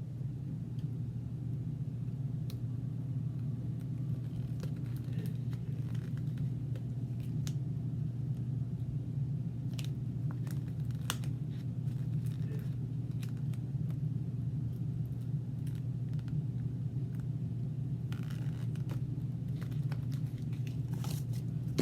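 A steady low hum with scattered light clicks, scratches and crinkles as small cut vinyl pieces are peeled from their backing and pressed onto a tumbler.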